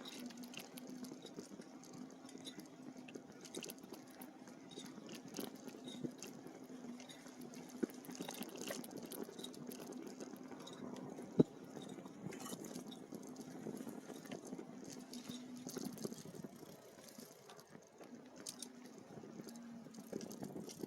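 E-bike riding along a dirt trail: faint crackle of the tyres over the ground with scattered small ticks, under a steady low hum. A single sharp click about eleven seconds in.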